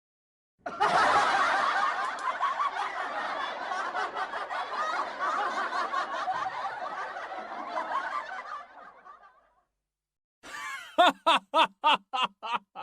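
An audience laughing together for about nine seconds, fading away near the end. After a short silence a man laughs wildly in quick, loud bursts, about three a second.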